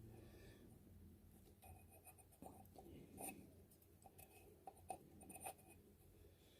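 Near silence with faint, scattered small clicks and rubbing from handling small parts, here a rubber oil seal being fitted onto the oil filter union.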